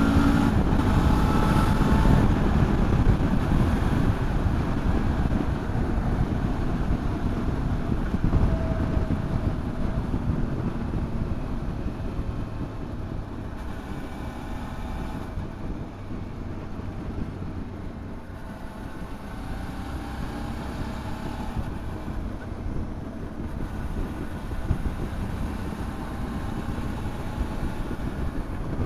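Motorcycle engine running at road speed with wind rushing over the microphone. It is louder for the first few seconds, then eases to a lower, steady level.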